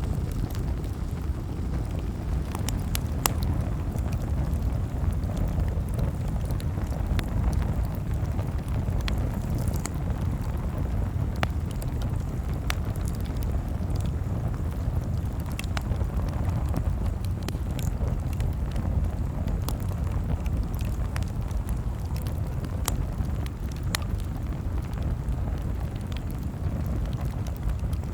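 Campfire crackling: sharp pops and snaps at irregular moments over a steady low rumble.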